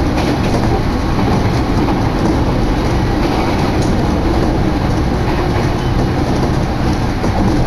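Electric train running at speed, heard from inside the carriage: a steady rumble of the wheels on the rails.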